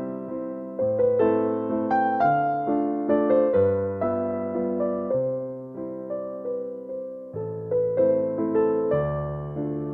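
Slow, gentle piano music: notes and chords struck about once a second and left to ring and fade.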